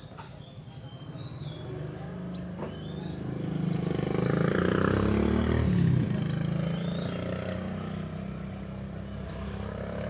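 A motor vehicle engine passing, growing louder to a peak about five to six seconds in and then fading. Short high bird chirps sound on and off throughout.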